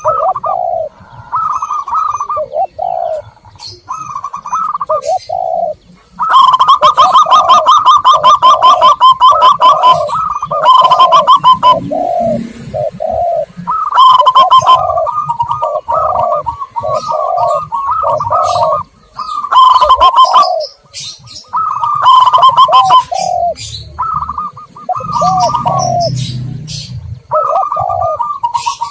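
Zebra doves and spotted doves cooing over each other in repeated phrases, with a fast run of stuttering coos about six to ten seconds in and a few thin high chirps, as in a bird-lure recording.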